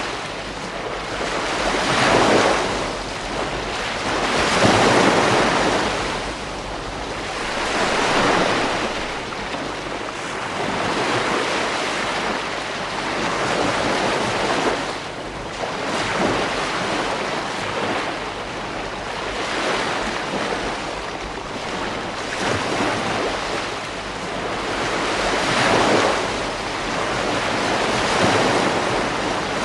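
Ocean waves breaking on a beach, the surf swelling and easing every few seconds, with some wind on the microphone.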